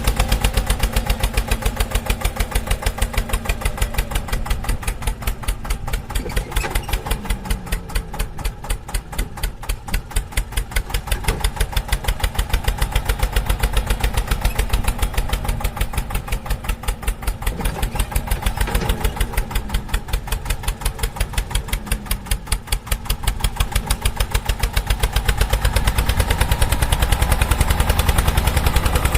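Tractor engine running with a steady, rapid thumping beat, swelling and easing slightly in level.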